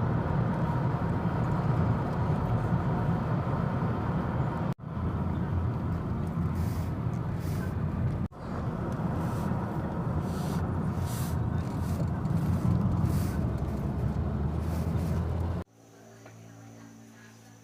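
A loud, steady low rumbling noise that breaks off abruptly twice and stops suddenly near the end, leaving a much fainter background with a few faint steady tones.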